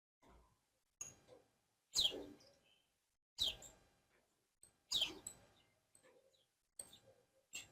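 Small birds chirping: a string of short, sharp chirps, each falling quickly in pitch, four of them loud and about a second and a half apart, with fainter chirps between.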